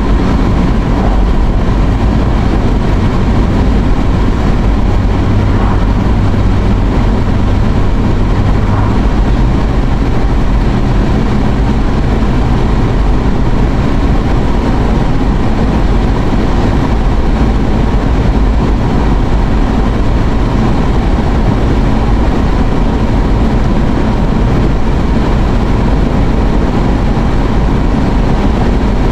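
Steady road and engine noise inside a moving car's cabin, a loud low rumble with a hum that shifts slightly in pitch about nine seconds in.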